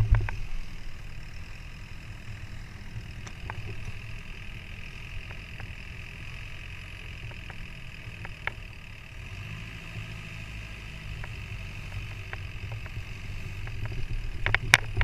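Boat engine running steadily at a low hum, with scattered sharp clicks and a cluster of louder clicks near the end.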